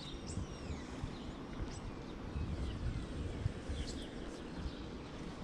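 Small birds chirping every so often, short high calls, over a low steady outdoor rumble.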